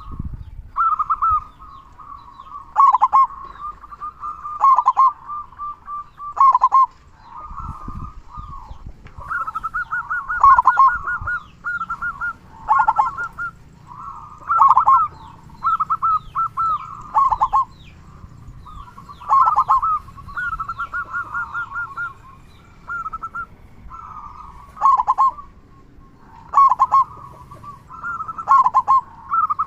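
Zebra dove (perkutut) singing: repeated cooing phrases every second or two, each a fast stuttering run of notes near 1 kHz with louder, deeper coos.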